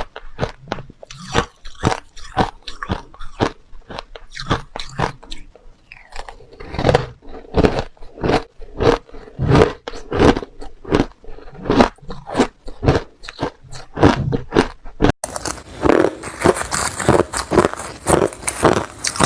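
Crushed ice being bitten and chewed close to the microphone, a run of hard crunches about two a second. About fifteen seconds in the sound cuts abruptly to another take with more hiss behind the crunching.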